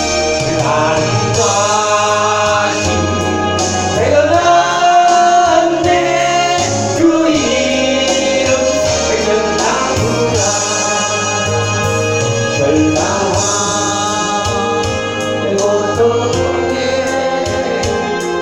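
Korean praise song sung by voices with instrumental accompaniment, the melody gliding between held notes over a sustained bass.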